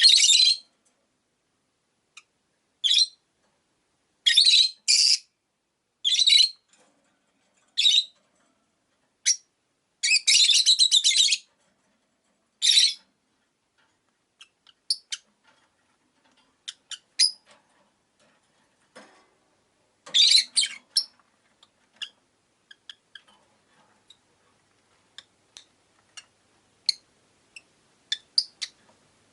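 Rosy-faced lovebirds calling: loud, shrill chirps in short bursts, with a longer rapid chattering run about ten seconds in, then softer scattered tweets through the second half.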